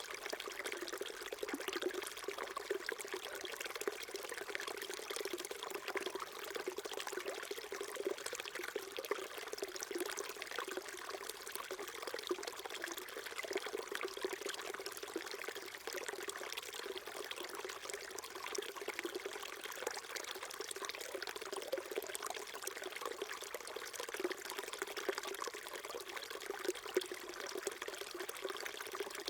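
A small stream flowing steadily, with water trickling and splashing over rocks.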